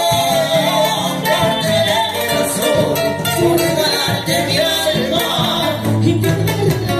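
Live Cuban son / salsa band playing, with singing over bass, guitar and percussion.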